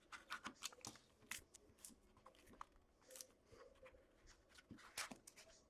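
Faint handling sounds of opening a hockey card box and pack: scattered light clicks, rustles and short scrapes of cardboard and wrapper.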